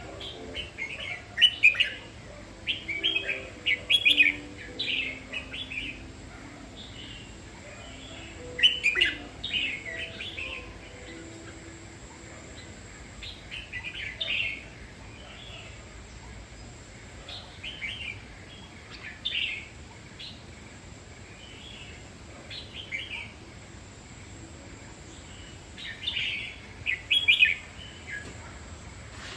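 Red-whiskered bulbul singing: short, bright phrases of a few quick notes, repeated every few seconds with pauses between.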